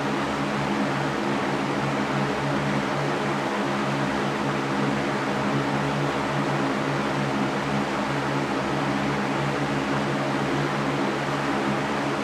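Electric fan running steadily: a constant motor hum with an even rush of air.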